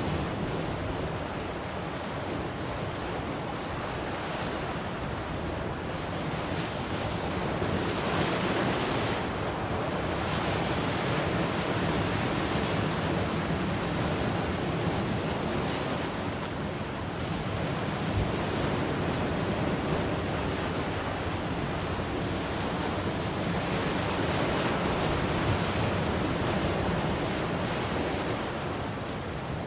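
Ocean surf: waves breaking and washing up in a continuous hiss that swells and ebbs every several seconds, with some wind on the microphone.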